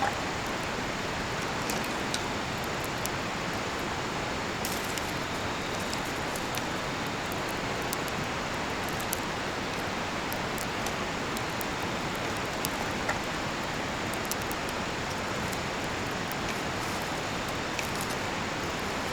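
Steady rushing of a nearby river, with a cedar-wood campfire crackling in sparse, sharp little pops over it.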